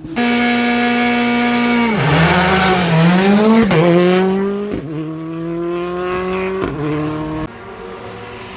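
Rally car engine at high revs, held steady, then falling as the car slows about two seconds in. It then accelerates away, the revs climbing and dropping back at each gear change, before the sound fades near the end.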